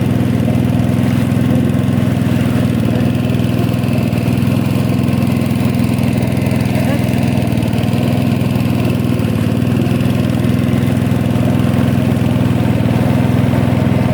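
Small motorboat engine running steadily at an even speed while the boat is under way.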